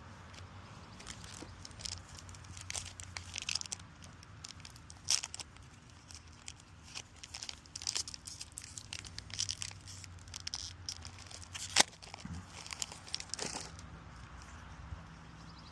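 Foil trading-card booster pack wrappers crinkling and being torn open, with cards rustling as they are handled; irregular crisp crackles, with one sharp click about twelve seconds in.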